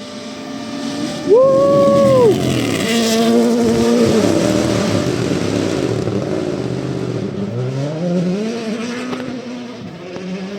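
Rally car passing at full attack: the engine jumps up in revs and holds about a second in, lifts off about two seconds in with a rush of tyre and road noise, then rises and falls through the gears as it goes by.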